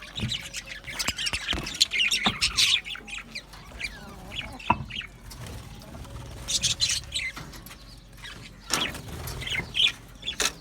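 A flock of budgerigars chattering and warbling, with many overlapping short chirps and a few sharp clicks.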